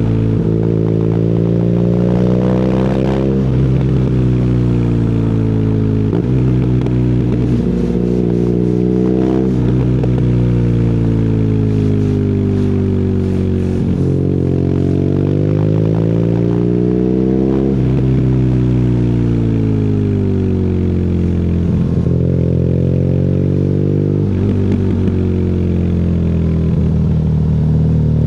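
BMW R nineT's boxer twin through an Akrapovic exhaust, accelerating and slowing on the road. The pitch climbs, drops at a gear change about three seconds in, sinks slowly as the bike slows, climbs again to a peak near eighteen seconds, and rises once more near the end.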